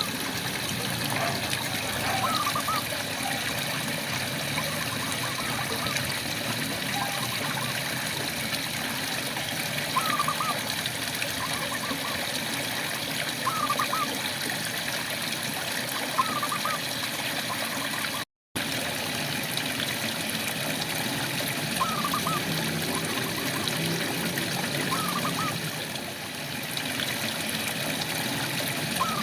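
Steady rain with frogs calling in short chirps every few seconds. About two-thirds through, the sound cuts out completely for a split second.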